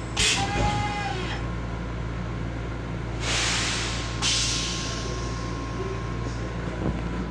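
Steady low hum of a Long Island Rail Road M7 railcar heard inside its restroom. A brief squeaky clatter comes near the start, and a hiss of about a second comes some three seconds in.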